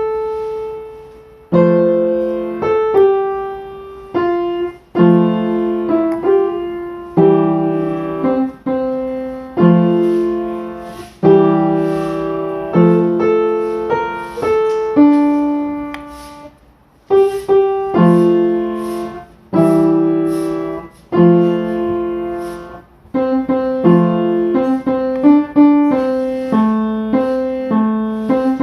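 Slow solo piano music: chords struck about every second or two and left to ring and fade.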